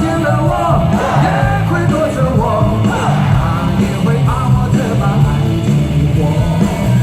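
Live rock band music, loud and full, with a male voice singing a wavering, drawn-out melody line over the band.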